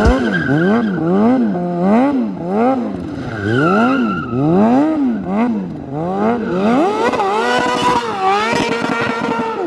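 Pit bike's small single-cylinder engine revved up and down over and over, its pitch rising and falling about once or twice a second. From about seven seconds in it holds at higher revs with a wavering pitch.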